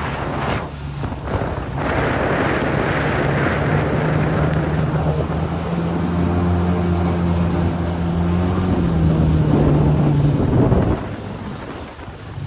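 Jet ski engine running steadily under way, with wind buffeting the microphone. The engine note falls away about eleven seconds in.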